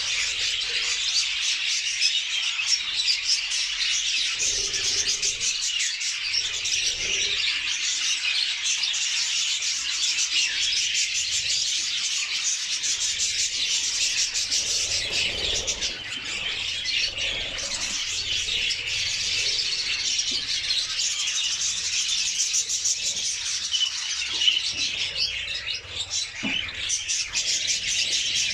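Budgerigars chattering and warbling continuously, a dense stream of quick chirps and twitters. There is one brief louder tap near the end.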